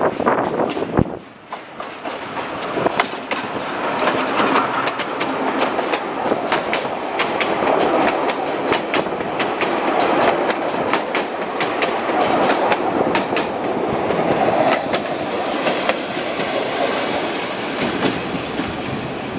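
Narrow-gauge passenger train passing close by, its coaches rolling over the rails with a steady clickety-clack of wheels striking rail joints and points.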